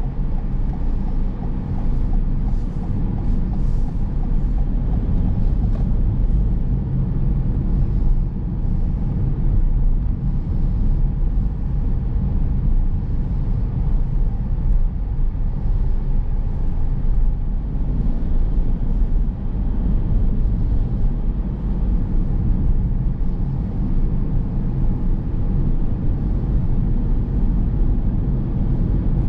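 A car driving steadily on city roads: continuous low engine and tyre rumble with road noise.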